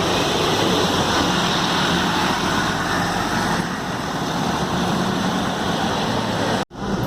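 Scania K280UD double-decker bus running, heard from on board: a steady engine hum under road and wind noise. The sound cuts out for an instant near the end.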